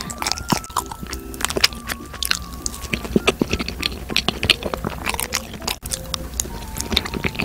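Close-up chewing of a cream-filled bagel: a quick, uneven run of small wet clicks and crunches, over soft background music.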